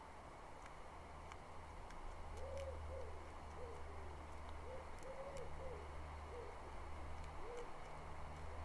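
A faint run of about eight short, low hooting calls from a bird, spaced irregularly over some five seconds, over a steady low hum.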